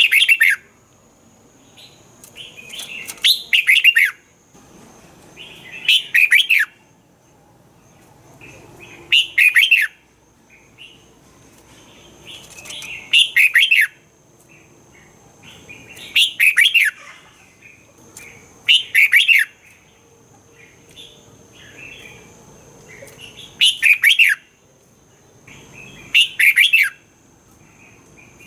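Red-whiskered bulbul singing, about nine short, loud phrases of quick falling whistled notes, one every few seconds.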